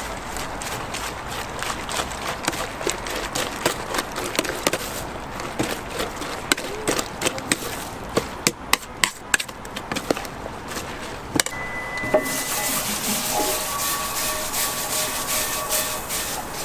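Sharp knocks of a knife chopping on a wooden cutting board, coming in a quick run about eight to nine and a half seconds in. From about twelve seconds a steady sizzling hiss from the hot griddle takes over.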